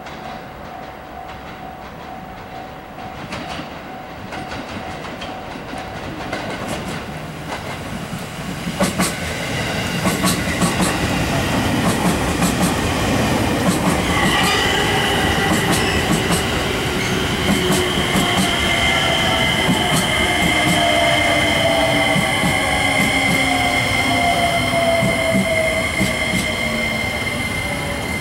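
JR limited express electric train (Azusa) approaching and running past close by, its wheels clicking over rail joints from about a third of the way in and getting louder. From about halfway, a steady high squeal from the wheels or brakes sounds over the rumble, joined by a whine that falls in pitch as the train slows.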